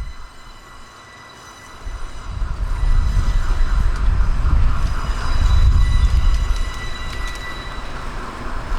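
A train moving past with a low rumble that swells up about two seconds in. A steady high whine runs over the rumble.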